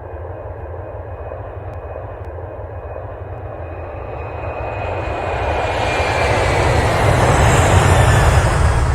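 A low rumbling roar with a rushing sound that builds steadily, loudest near the end, with a faint high whine that slowly falls in pitch.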